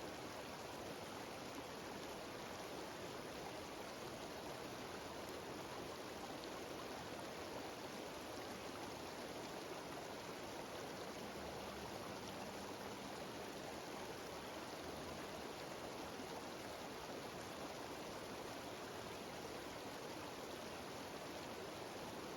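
Steady rushing of water from a small cascading mountain stream and waterfall, an even, unbroken sound with no change in level.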